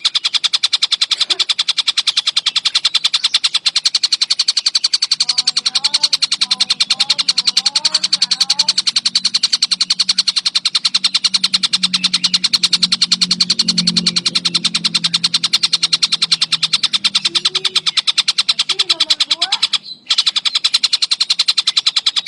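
Collared kingfisher (tengkek buto) calling in a fast, tightly packed run of sharp repeated notes, many per second, without a break, played as a bird-training recording. A low hum sits underneath through the middle, and the sound drops out briefly near the end.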